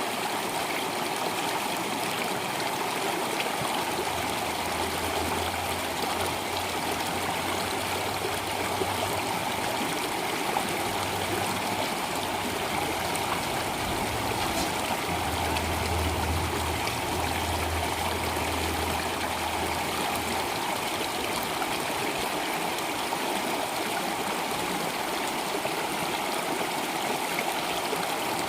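Flowing stream water, a steady rushing and babbling, with a low rumble underneath that comes and goes in the first two-thirds.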